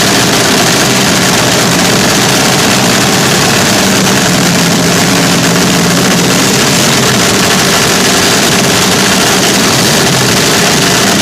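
Vintage front-engine slingshot dragster engines running on open exhausts, loud and steady with no revs.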